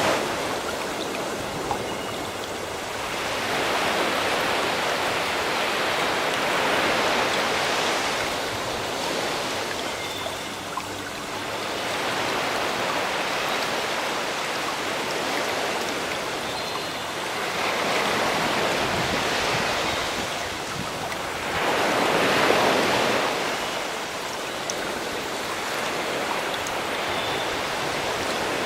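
Sea waves washing in, swelling and ebbing every few seconds, with a few faint bird chirps.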